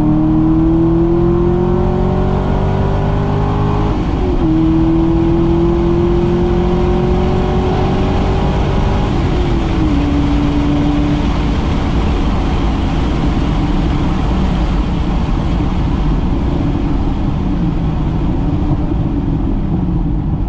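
2008 Corvette Z06's 7.0-litre LS7 V8 at full throttle, heard from inside the cabin, its pitch climbing through the gears with upshifts about four and nine seconds in. After about eleven seconds the engine note drops back under wind and road noise as the car slows from about 130 mph.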